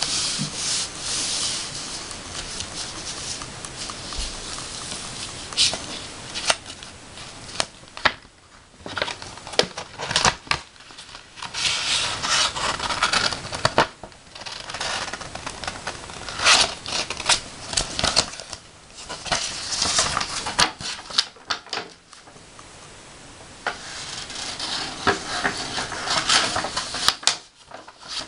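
Letter opener cutting and scraping across paper: irregular strokes of crisp scratching and rustling with small sharp clicks, stopping briefly now and then.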